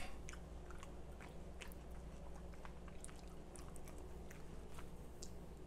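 Faint chewing, with small scattered mouth clicks, as someone eats a forkful of pan-seared cod and spinach. A low steady room hum runs underneath.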